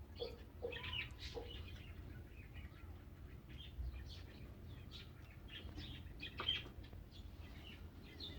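A hen clucking in a quick run of short clucks that stops about a second and a half in, then scattered high chirps from small birds.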